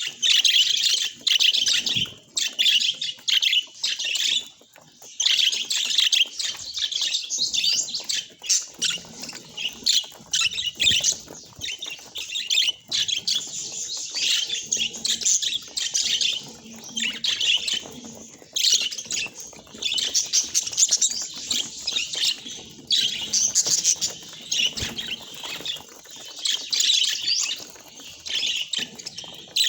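Budgerigars chirping and chattering: a dense run of quick, high chirps with only short pauses.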